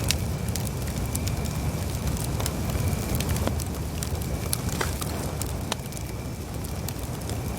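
Wood campfire burning, crackling with frequent sharp pops and snaps over a steady low rumble of flames.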